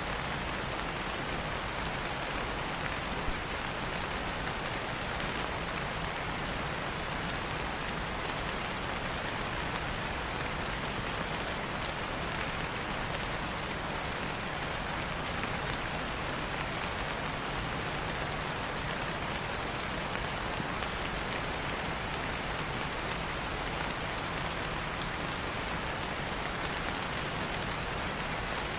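Steady rain falling on leaves, an even hiss with faint scattered drop ticks.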